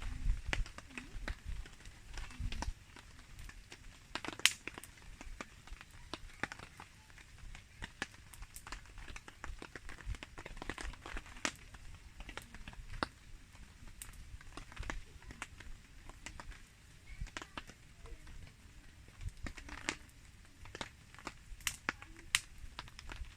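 Wood campfire crackling, with irregular sharp pops and snaps, the loudest about four and a half seconds in. A low rumble comes under it during the first few seconds.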